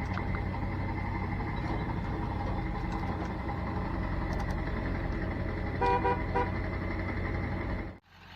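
A truck engine runs steadily, and a vehicle horn gives two short toots in quick succession about six seconds in. The sound cuts off abruptly near the end.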